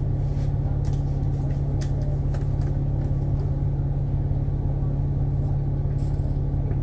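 Double-decker bus engine running with a steady low drone, heard from inside the cabin, with faint scattered ticks and rattles.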